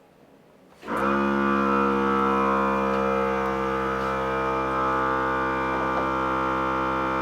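Small portable air compressor kicking on about a second in and running steadily, its motor giving a loud, even hum with a buzzy tone.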